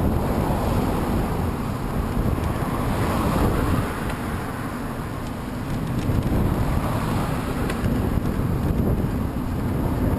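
Wind buffeting the microphone while riding into a headwind: a steady rushing rumble that swells and eases.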